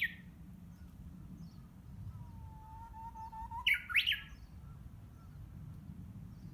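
Japanese bush warbler (uguisu) singing its 'hoh-hokekyo' song, practised and not yet polished. It tails off a flourish at the very start. About two seconds in comes one long, slightly wavering low whistle, and then a sharp rising flourish, the loudest part.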